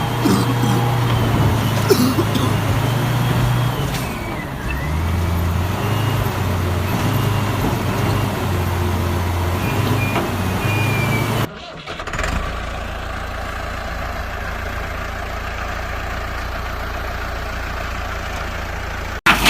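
Heavy-machinery engine running, its low note stepping up and down as if revving under load, with faint whistling glides above it. Just over halfway it cuts abruptly to a steady low engine drone.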